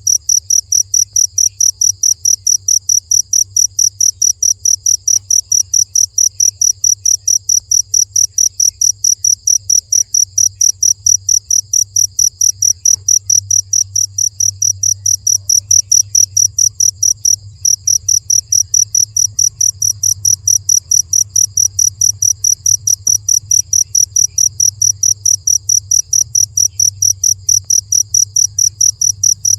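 Cricket chirping in a steady, fast, even rhythm of short high-pitched pulses, about five a second, with one brief break a little past halfway.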